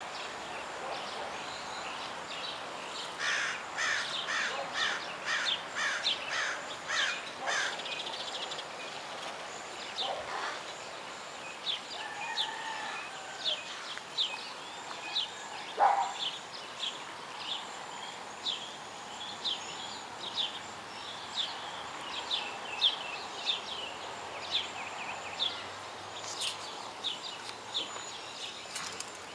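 Birds calling: a run of rapid calls, about two a second, in the first several seconds, then a long series of short high chirps, about one or two a second, over a steady faint background hiss.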